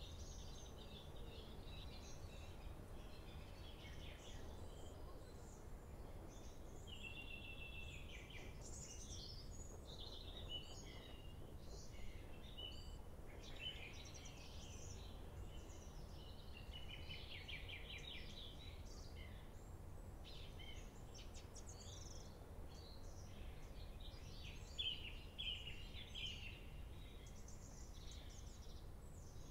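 Small birds singing and chirping over a steady low background rumble. The chirps come and go without pause and are briefly louder near the end.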